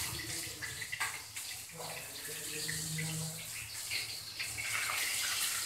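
Tofu frying in hot oil in a wok, a steady sizzling hiss, with the metal spatula scraping against the pan now and then.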